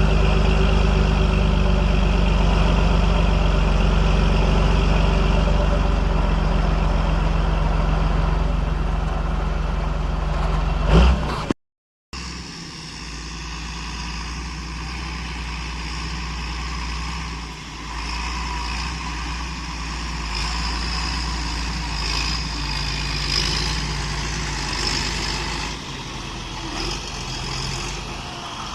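John Deere 8420 tractor's diesel engine running steadily. It cuts out briefly about eleven seconds in, then carries on quieter.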